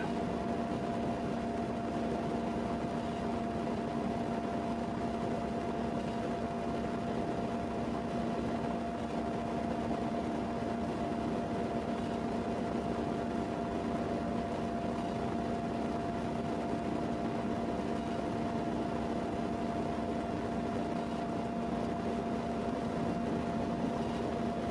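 Steady mechanical hum with two held tones over even noise, unchanging throughout, like a running fan or motor.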